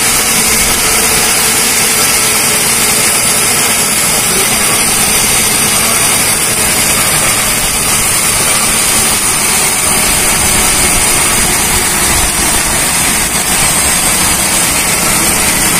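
Husqvarna FS 450's single-cylinder four-stroke engine running loud and steady on a dynamometer, its revs holding even rather than climbing.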